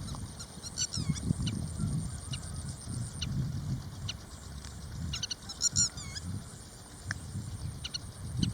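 Marsh birds calling: clusters of short, high chirping calls about a second in and again near six seconds, over an uneven low rumble.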